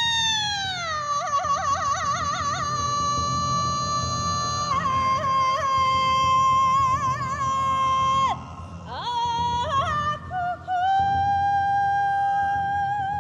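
A woman singing Mongolian long song (urtiin duu) in a high voice: long held notes, a slow falling glide near the start, quick trilling ornaments, a short break with brief upward slides about two-thirds in, then another long high held note.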